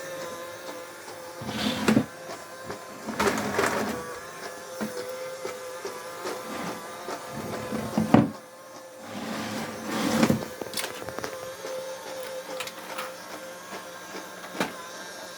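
Small toy-sized robot vacuum running: a steady, high motor whine, broken by several louder scuffs and knocks over the first ten seconds or so.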